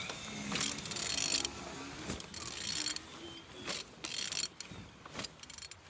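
Opel/Vauxhall Z16XER 1.6-litre four-cylinder petrol engine being turned over by hand, with several separate bursts of mechanical clicking and whirring as it rotates. It turns freely, a sign that the engine is not seized.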